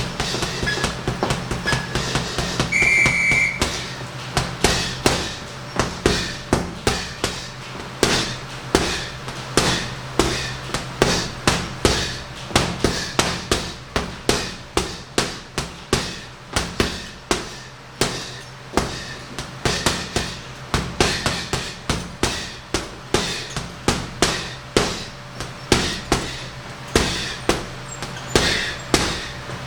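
Punches landing on a heavy punching bag in rapid combinations, dozens of sharp thuds, getting busier after about four seconds, over a steady low hum. A brief high beep sounds about three seconds in.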